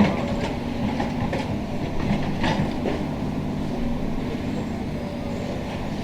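Demolition excavator's diesel engine running, with a sharp clank right at the start and scattered clanks and knocks of metal and masonry debris being moved.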